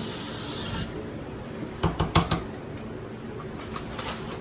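Kitchen tap running for a quick rinse, shut off about a second in, followed by a cluster of sharp kitchen knocks and clatters around two seconds in, with a few fainter knocks near the end.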